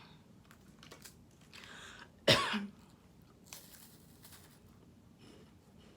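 A person coughs once, loudly, a little over two seconds in, with a few faint crunchy sounds of eating around it.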